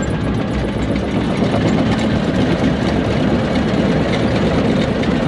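Heavy-equipment diesel engine running steadily with a low rumble.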